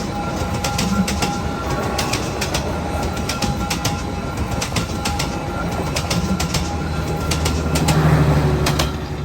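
Train cars rolling past, with wheels clicking over the rail joints in a steady rhythm over a continuous rumble and a thin steady squeal. The clicking stops near the end as the last car goes by, leaving the rumble.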